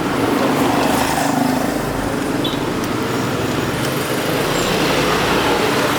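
Steady street traffic noise: a continuous wash of passing vehicles with no single event standing out.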